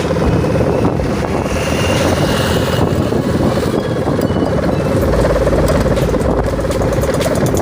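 Sendaren (Javanese bamboo-bow kite hummer) droning steadily with a rough buzz that sounds like a Dongfeng single-cylinder diesel ('dompeng'), its size-1500 string tuned, with wind rumble on the microphone.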